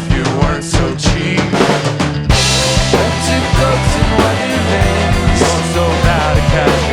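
A rock band playing an instrumental passage live, led by a drum kit with bass drum and snare hits and pitched instrument lines over them. About two seconds in, a bright crash and sustained low bass notes come in as the whole band plays fuller.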